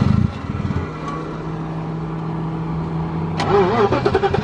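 BMW E30 sedan's engine idling with a steady low drone, after a short loud rumble right at the start.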